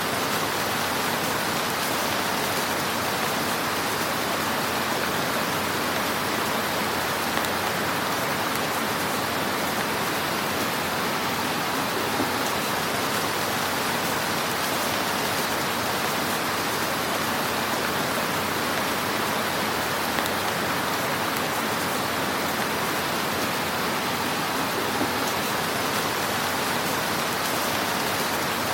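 Crackling fire in a fireplace: a steady hiss with a few faint pops, the clearest about twelve seconds in.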